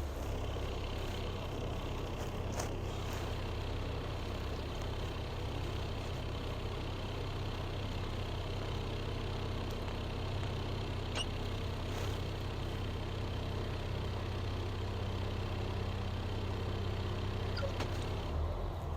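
Steady low rumble of a motor vehicle's engine and road noise, with a few faint clicks.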